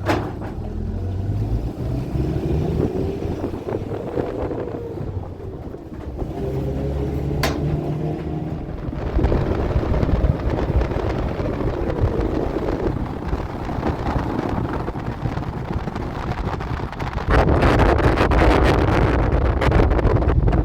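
Motor vehicle engine running on the move, its pitch rising and falling as it revs. Wind buffets the microphone, and the rumble grows heavier and louder near the end.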